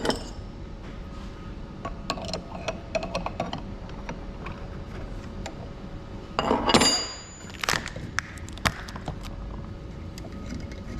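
Metal hand tools clinking and knocking on a diesel injector as its fixture is loosened. About six and a half seconds in comes a louder clattering scrape with a short metallic ring, followed by a few sharp knocks.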